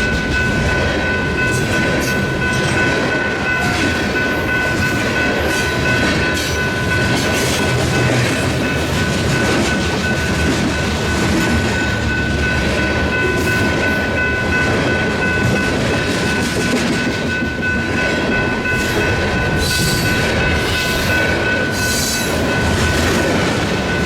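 Freight train cars rolling on the rails, with a steady clickety-clack of wheels and a few steady high-pitched tones over the rumble.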